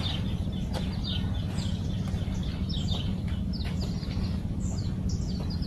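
Birds chirping in many quick, short, falling notes over a steady low rumble.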